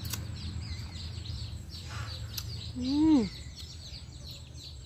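Small birds chirping over and over in the background. About three seconds in, a short voiced call rises and then falls, and it is the loudest sound.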